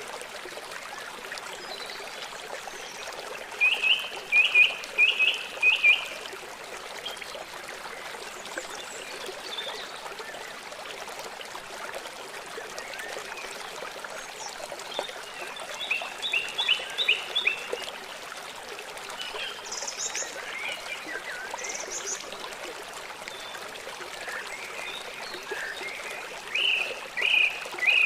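Small songbirds chirping in short, quick runs of high notes, three times, with a couple of brief very high calls between, over a steady trickle of running water.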